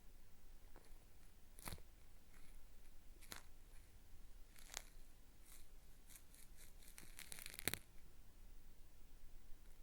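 Cotton swab scraping in the ear of a binaural microphone with a gritty, peeling crackle: a few separate strokes, then a quick run of them near the end.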